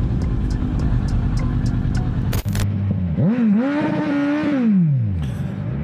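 A vehicle engine runs steadily under road noise. About two and a half seconds in there is a sharp click, after which an engine revs up, holds its pitch for about a second and winds back down.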